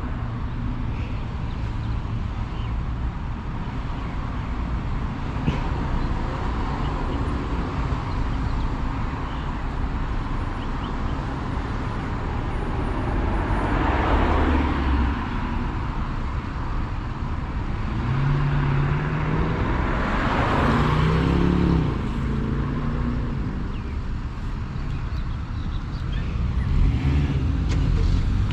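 Road traffic: a steady low rumble, with two vehicles passing close by about halfway through and again about two-thirds of the way through.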